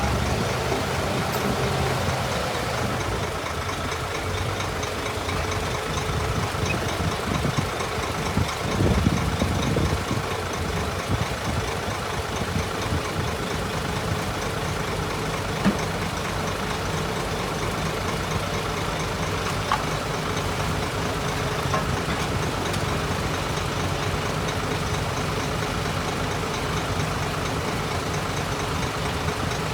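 Diesel engine of heavy earthmoving machinery running steadily, with a few brief knocks and a louder, rougher stretch about nine seconds in.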